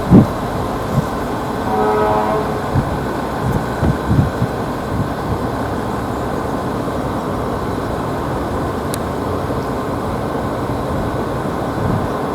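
Jet airliner engines, an Airbus A320's, running with a steady roar, with wind gusting on the microphone. A short horn-like tone sounds about two seconds in.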